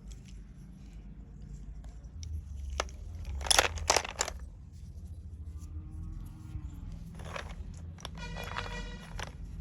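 Slate pencils crunching, with scattered small crackles and a loud cluster of sharp crunches about three and a half to four seconds in.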